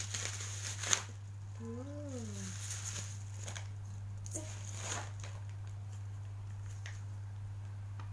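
Plastic packaging crackling as a parcel is unwrapped, with a sharp click about a second in and another near the middle. A short call that rises and then falls in pitch sounds about two seconds in, over a steady low hum.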